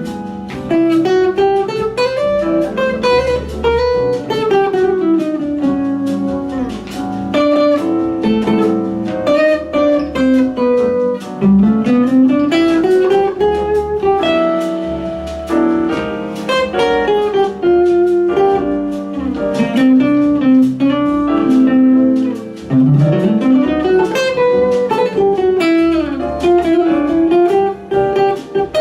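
Guitar improvising a melody, its notes gliding up and down in pitch over a pulsing low accompaniment.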